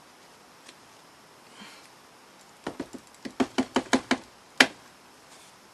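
Scissors snipping foam: a quick run of about ten sharp snips over a second and a half, then one louder snip, as the foam is trimmed smooth.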